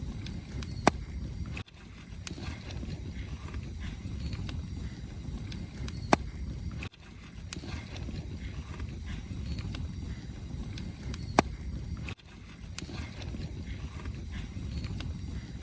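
Wood campfire burning: a steady low rumble of flames with faint crackling and three sharp pops from the firewood, about five seconds apart.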